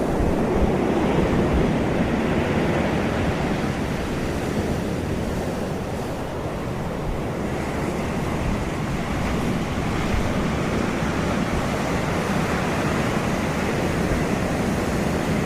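Steady sea surf with wind buffeting the microphone.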